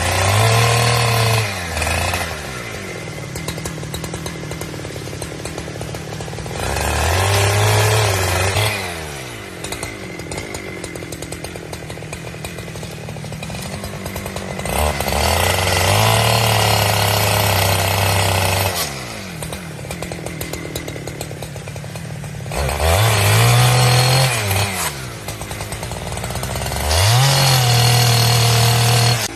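Chainsaw revving up to full speed and holding there in five bursts of two to four seconds each, falling back to idle between them, as when cutting through firewood.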